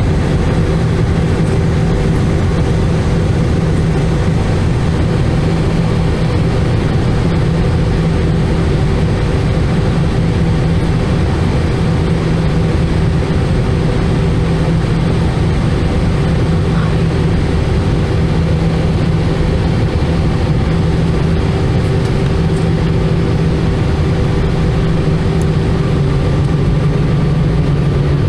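Airbus A320's CFM56 turbofan engines heard from inside the cabin in flight: a steady loud drone with a low hum and airflow hiss, its tones shifting slightly near the end.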